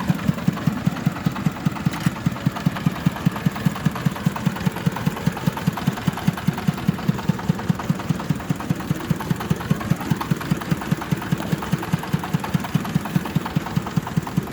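Kubota diesel engine powering a rice thresher, running steadily with an even, thudding beat of about five firing pulses a second.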